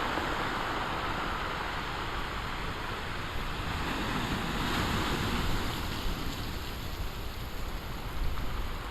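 Big waves breaking along the shore: a steady rushing wash of surf that swells a little about halfway through.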